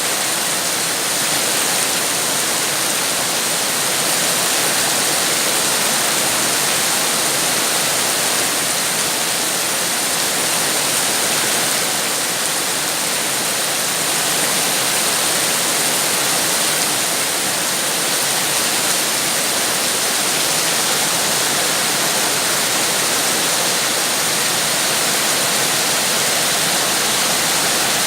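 Steady rain falling: a dense, even hiss with no separate drops or thunder standing out.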